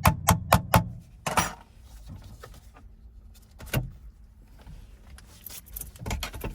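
Sharp metallic clicks and clinks of small parts and tools being handled while fitting a shifter cable: a quick run of about five clicks in the first second, then a few scattered clicks later.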